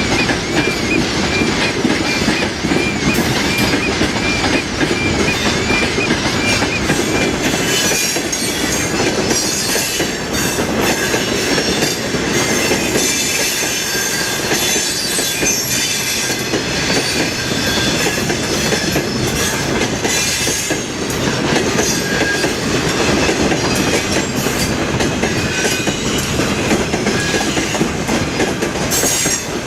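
Train wagons rolling along the track with steady clickety-clack over the rail joints. A high wavering wheel squeal runs through the first several seconds, followed by rapid clicking for the rest of the passage.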